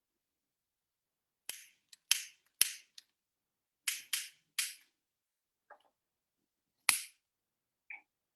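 A series of sharp, hissy snaps, about eight of them at irregular intervals with near silence between, each dying away quickly; two of them, about 2 and 2.6 seconds in, are the loudest.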